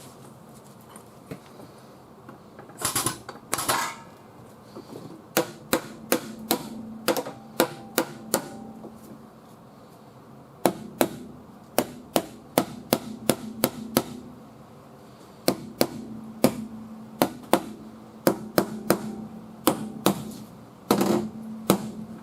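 Hammer striking the steel sheet metal of a car's quarter panel in runs of quick, sharp blows, about two a second, knocking down high spots while the panel is held under pull. A couple of longer, rougher knocks come about three seconds in and near the end.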